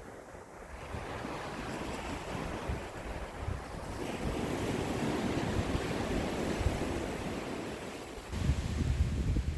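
Ocean waves washing onto the shore, the wash building about a second in and swelling strongest in the middle before easing. Wind rumbles on the microphone, rising abruptly near the end.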